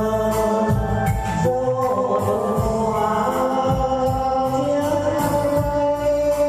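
A man singing a song over a backing track with a steady beat.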